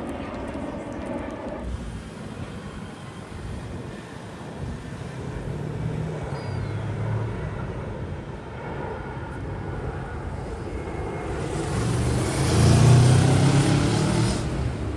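Aircraft engines passing close, building to a peak about three-quarters of the way in, with a hissing roar and a pitch that slides downward as it goes by, then easing off.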